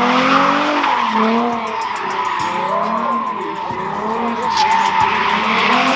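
A car sliding with its tyres squealing steadily while the engine revs rise and fall over and over.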